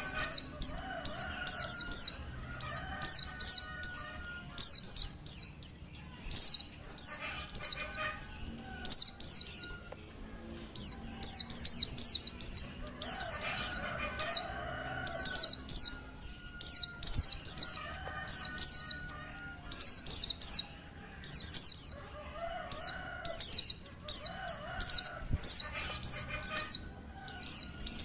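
Female white-eye (pleci) giving her calls: clusters of three to five quick, very high, downward-sliding chirps, repeated about once a second. Fainter, lower-pitched bird calls sound underneath.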